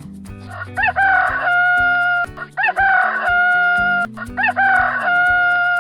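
Rooster crowing cock-a-doodle-doo three times, each crow rising and then ending in a long held note, over cheerful background music with a steady beat.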